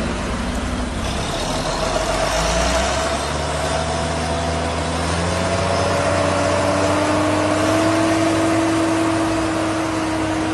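Tractor engine working hard under a heavy pulling load, running loud and steady, its pitch stepping up a couple of times early on and then climbing slowly and holding high.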